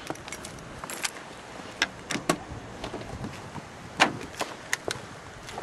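Scattered sharp clicks and knocks, half a dozen or so, of handling around a car, with keys jangling; no engine is running yet.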